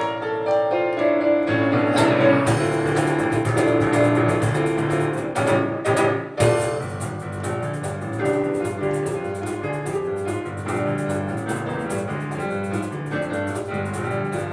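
Live instrumental piano and cajón duo playing a fast piece: piano chords and melody over a steady cajón beat, with a short break about six seconds in before the piano and cajón drive on.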